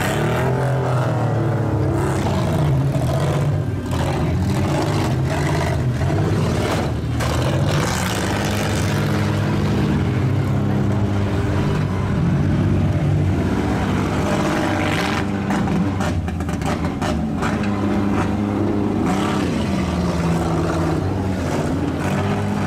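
Several demolition-derby minivan engines running and revving at once, pitch rising and falling, with sharp bangs of the vans colliding scattered through, most often about a third of the way in and past the middle.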